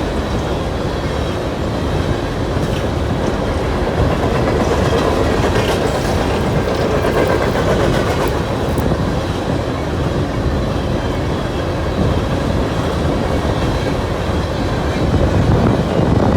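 Coal train cars rolling past, a steady loud rumble of steel wheels on rail.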